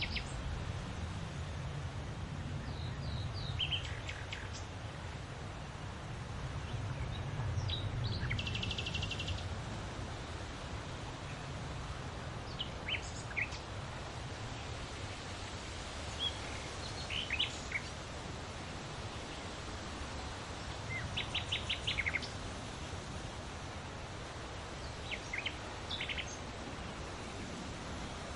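Wild birds chirping and calling in short, scattered phrases over a steady background hiss with a low rumble, with rapid trills about 8 seconds in and again about 21 seconds in.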